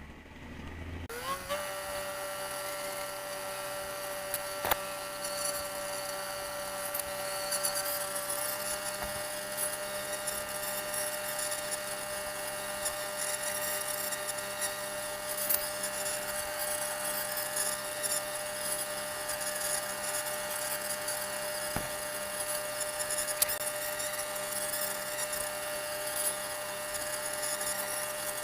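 Fishing-boat machinery starting up with a quick rising whine, then running at a steady pitch with a light rattle, shifting slightly in pitch about eight seconds in.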